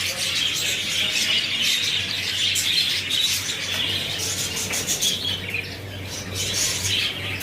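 A dense, unbroken chorus of many small caged birds chirping together.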